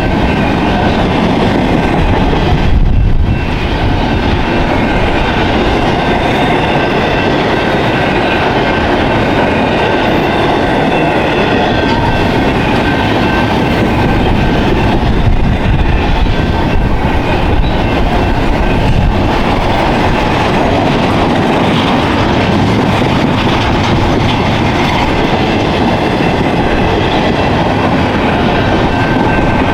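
BNSF intermodal freight train rolling past close by, its cars' steel wheels on the rail making a loud, steady rumble, with a faint steady high ringing above it.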